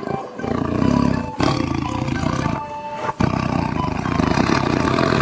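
Tiger roaring: three long, rough roars one after another, with short breaks between them.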